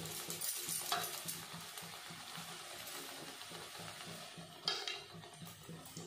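Coconut-and-gram-flour fritter sizzling in hot oil in a kadai, a steady fine sizzle with two brief louder sounds, about a second in and near five seconds in.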